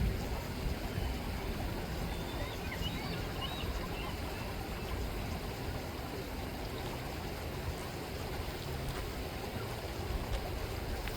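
River water rippling and rushing steadily. A few faint high bird calls come about two to three seconds in.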